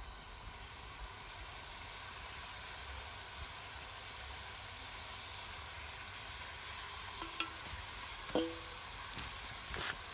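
Beef sizzling as it sears in a pot over a campfire: a steady hiss, with a few short clinks of a utensil against the pot in the last few seconds.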